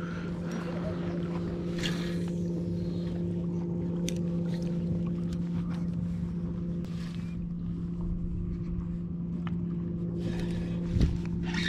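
A boat motor running at a steady speed, an even hum that holds one pitch, with a few light knocks.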